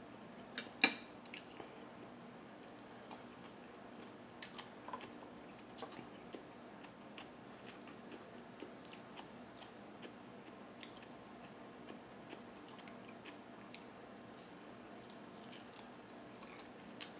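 Close-up chewing and biting of fried tofu, with soft wet mouth clicks throughout. Just under a second in, a sharp clink, a spoon against the small glass dipping-sauce bowl. A faint steady hum sits underneath.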